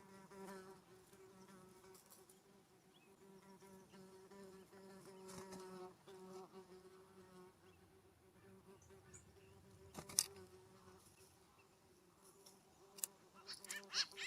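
A flying insect buzzing close to the microphone, a faint steady drone that swells now and then as it passes nearer. A loud animal call starts just before the end.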